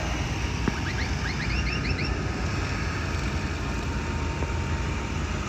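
Tractor engines running steadily, with a short, quick run of high rising chirps about a second in.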